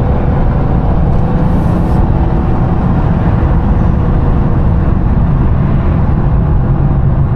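A twin-charged Mercedes driving at a steady pace: an even engine and road rumble, with no rev climbing or dropping.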